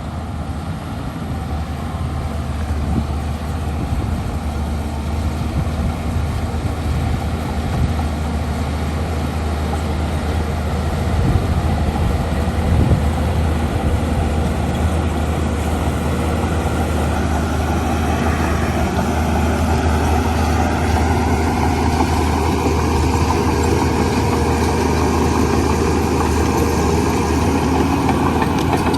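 Diesel engine of heavy earthmoving machinery running steadily, with a few knocks about a third of the way in, then working harder and louder for the last third.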